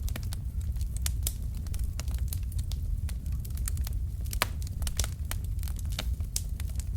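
Wood fire in a fireplace crackling: many sharp, irregular pops and snaps from burning logs over a steady low rumble of the flames.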